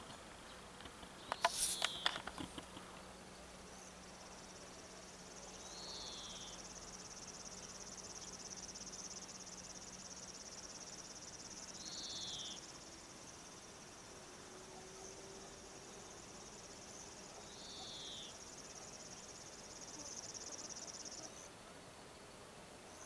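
A steady high insect trill runs until near the end, cutting off about 21 seconds in, typical of a cricket or similar singing insect. Over it come three short, falling chirps about six seconds apart, and a few sharp clicks about a second and a half in.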